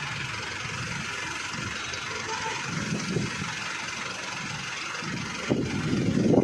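Tractor engine running steadily at idle, with a louder stretch near the end.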